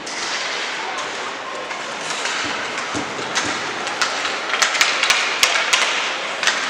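Game noise in a large hall or arena: a steady wash of play and crowd sound, with a quick run of sharp clacks and knocks from about four seconds in.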